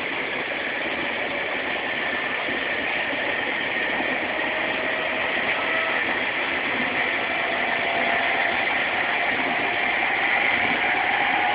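Running noise heard inside a JR Sobu Rapid Line electric commuter train car: a steady rumble and hiss. From about halfway through, a faint whine rises slowly in pitch and the noise grows gradually louder as the train picks up speed.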